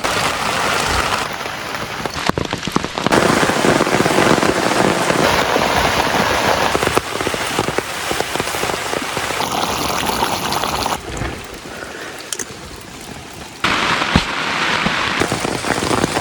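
Heavy rain pouring down, in several short stretches that start and stop abruptly at different loudness.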